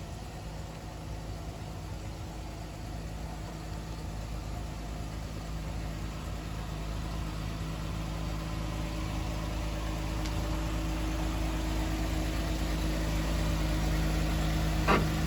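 An engine running steadily at one speed with a low hum, growing gradually louder.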